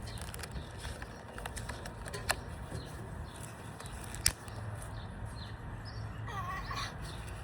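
Rubber bands being stretched and snapped onto a watermelon: a few sharp, separate snaps, the loudest about four seconds in, over a steady low background rumble. A brief high wavering vocal sound comes near the end.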